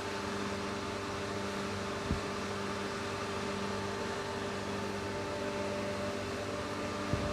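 Steady machinery hum made up of several steady tones over a noise bed, with two short low thumps, one about two seconds in and one near the end.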